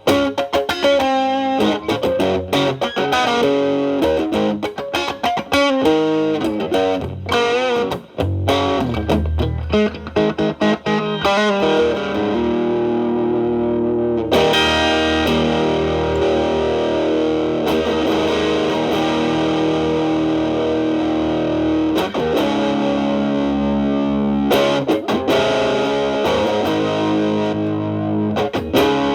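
Electric guitar (a Telecaster with alnico single-coil pickups) played through an MXR Distortion+ with its distortion at 3, stacked with a Boss SD-1 used as a boost, into a Marshall Valvestate's clean channel, giving a mildly driven tone. Quick single-note lines come first, then long sustained notes and chords from about halfway in, with more picked phrases near the end.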